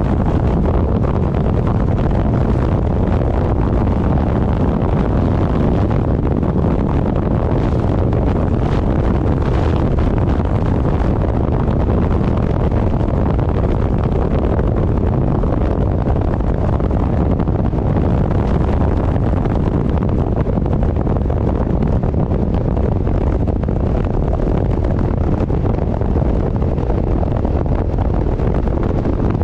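Wind buffeting the microphone at travelling speed: a loud, steady, low rumble with no breaks.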